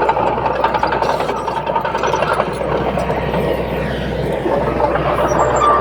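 Heavy diesel earthmoving machinery running steadily, with a constant low engine hum.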